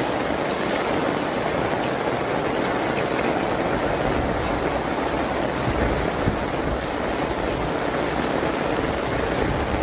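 Heavy rain pouring steadily, a dense even hiss with scattered drop ticks.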